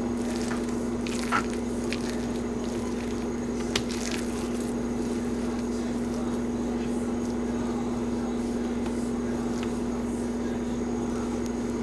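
Soft, faint squishing of hands kneading and mashing a mashed chickpea and potato mixture, with small clicks, over a steady low hum.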